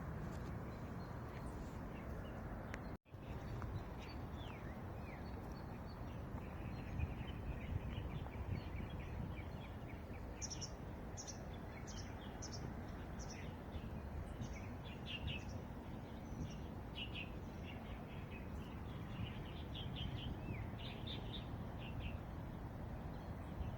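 Small birds chirping and twittering in quick short notes over steady low background noise. The sound cuts out for an instant about three seconds in.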